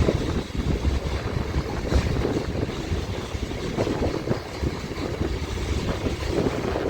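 Freight train rolling past, a steady low rumble with uneven fluttering through it.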